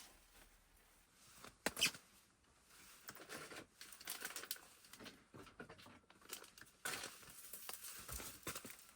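Irregular rustling and crinkling handling sounds, with a sharper crackle about two seconds in and fairly continuous rustling from about three seconds on.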